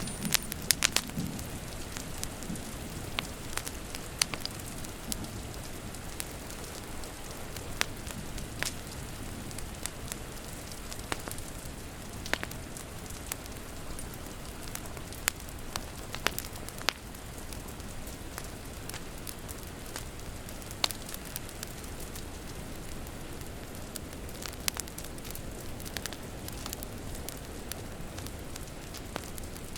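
Wood fire crackling, with irregular sharp pops, over a steady hiss of rain. A low thunder rumble dies away in the first couple of seconds.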